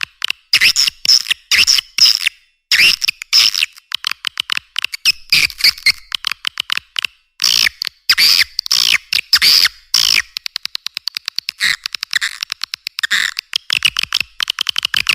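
Recorded swiftlet calls played as a lure for a swiftlet house: dense twittering chirps broken by runs of rapid clicks, with no low end at all.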